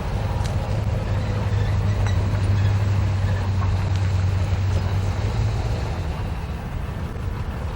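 Norfolk Southern freight train's diesel locomotive running, a steady low drone that eases off about five and a half seconds in.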